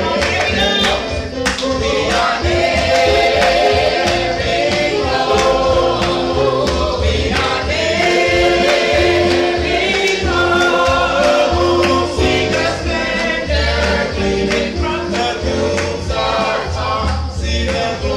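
Gospel music: a choir singing over a band with a prominent bass line and drums.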